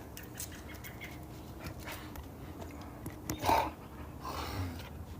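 A dog breathing close to the microphone: a few short breathy puffs of panting or sniffing, the loudest about three and a half seconds in, over a low steady background.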